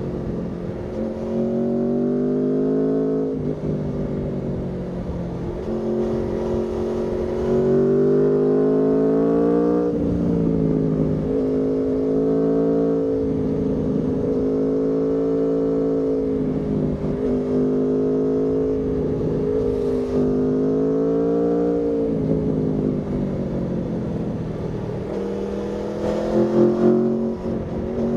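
Aprilia Tuono V4 motorcycle's V4 engine under way, rising in pitch as it accelerates and dropping at each gear change. It runs at a fairly even speed for a long stretch in the middle, and near the end there are a few sharp, louder bursts as the revs jump and fall.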